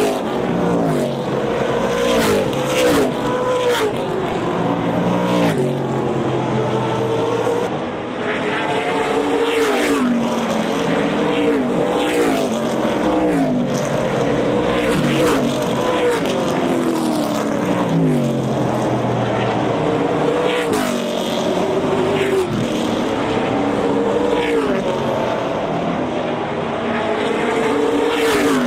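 Race cars running hot laps on a short oval track: several engines at full throttle, their pitch climbing and dropping again and again as cars accelerate, back off and pass by.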